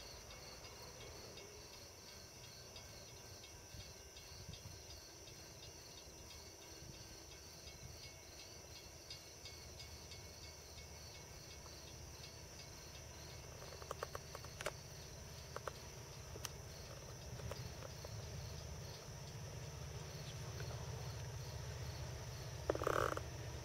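Crickets and other insects chirping faintly, a steady high-pitched drone with a regular pulsed chirp, over a faint low rumble. A few light clicks come about two-thirds of the way through, and a brief louder sound comes just before the end.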